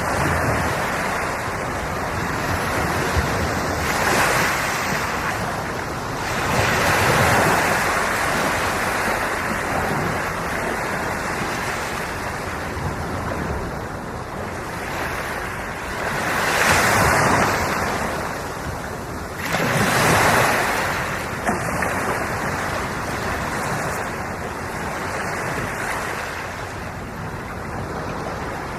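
Ocean waves breaking and washing on the shore, in a continuous wash with several louder surges, each rising and falling over a couple of seconds, with some wind on the microphone.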